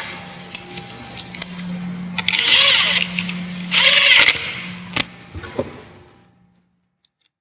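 Hands-on tool and parts handling on a Prius hybrid battery pack: a run of clicks and knocks, with two short loud bursts of noise about two and a half and four seconds in, then fading out.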